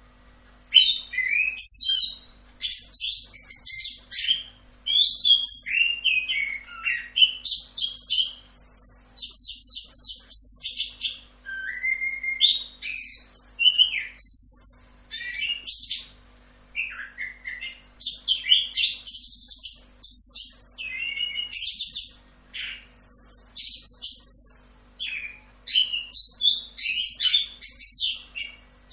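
Chestnut-capped thrush (anis kembang) singing a long, continuous run of quick, varied whistled and chattering phrases with only brief pauses, beginning about a second in.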